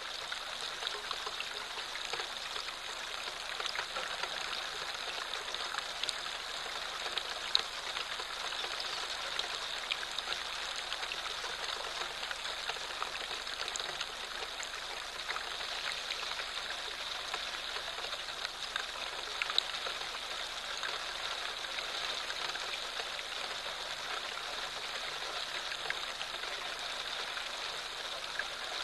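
Light rain falling: a steady patter with many small drop ticks, and two louder clicks, one about a third of the way in and one about two-thirds of the way in.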